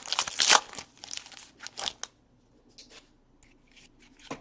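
Trading card pack wrappers crinkling and tearing as packs are opened, with dense rustling in the first two seconds, then a few faint crinkles.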